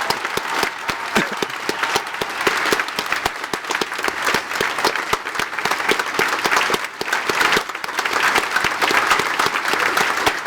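Large audience applauding steadily, many hands clapping, for veterans standing to be recognized.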